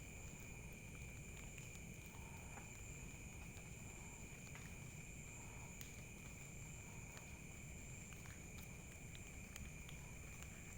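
Faint steady chorus of night insects such as crickets, trilling unbroken at two pitches, one high and one very high, with a few faint ticks.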